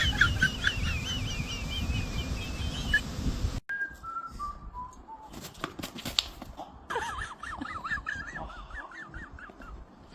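Warbling whistle-like tones over a low rumble, cut off abruptly. Then comes a descending run of about five short notes, like a comic 'fail' sound effect, and near the end more rapid warbling tones.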